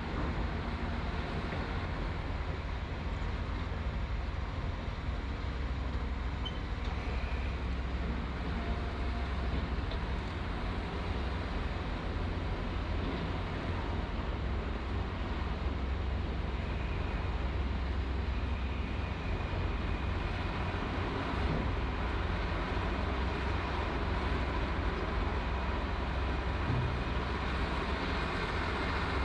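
Heavy construction machine's diesel engine running steadily, a continuous low rumble with a faint steady whine above it.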